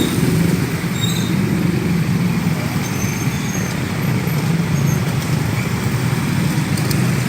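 Steady road traffic noise from a jammed street: a constant low hum of idling and slowly moving car and motorbike engines.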